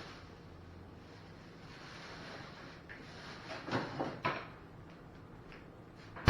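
Kitchen handling sounds: low room noise broken by about three short knocks and rustles in quick succession a little past halfway, then a louder knock at the very end.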